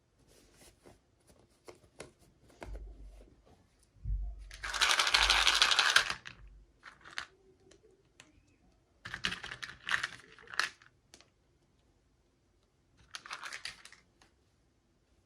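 Toy packaging being handled and unwrapped: rustling, crinkling bursts, the loudest and longest about four to six seconds in and shorter ones near ten and thirteen seconds, with small clicks and taps between.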